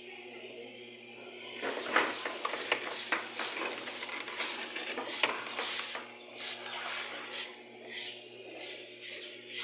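Repeated short scraping strokes, irregular, two or three a second, starting about one and a half seconds in, over a steady low hum.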